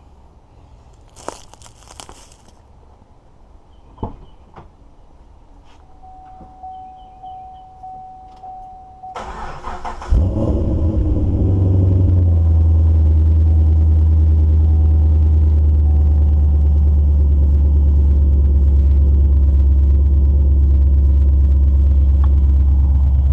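Keys jangle and a few clicks, and a steady tone sounds for a few seconds. About nine seconds in, the starter cranks and the 2010 Camaro SS's LS3 V8, fitted with Kooks long-tube headers, high-flow cats and a 3-inch catback, catches with a loud flare, then settles into a loud, steady cold-start fast idle.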